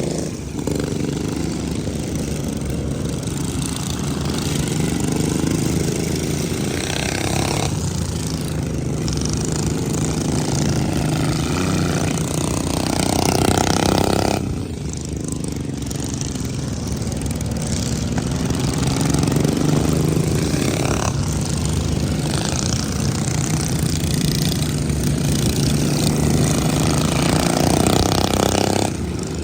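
Racing riding lawn mower engines running hard, their pitch rising and falling as they accelerate and slow through the corners.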